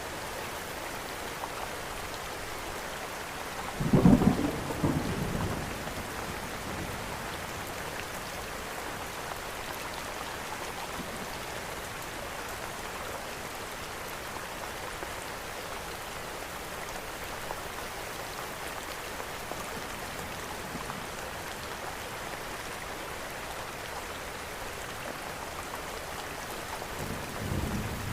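Steady rain hiss, with a loud roll of thunder about four seconds in that fades over about two seconds, and a fainter rumble near the end.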